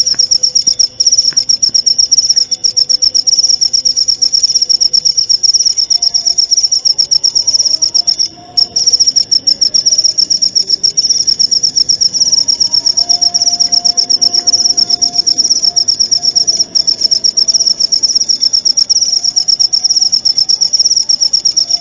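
Cricket chirping in a long, unbroken high-pitched trill of rapid pulses, pausing briefly about eight seconds in.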